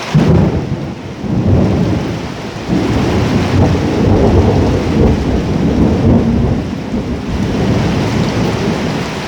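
A long rumble of thunder over steady rain. It starts suddenly just after the beginning and rolls on in swells.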